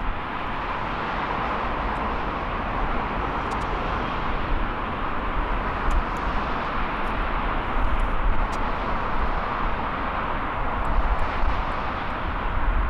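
Jet airliner's engines heard from the airport perimeter: a steady, broad rush of noise with an uneven low rumble beneath, swelling slightly a little past the middle.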